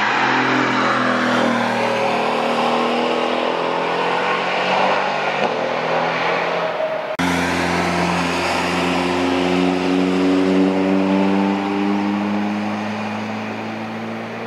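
Car engines accelerating past on a race track: one engine note climbs steadily for about seven seconds, then after a sudden cut a red classic roadster pulls through the bend, its engine note rising slowly and fading near the end.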